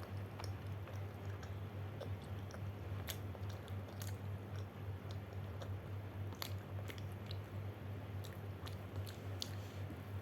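A person chewing and biting pizza, with scattered small mouth clicks, over a steady low hum.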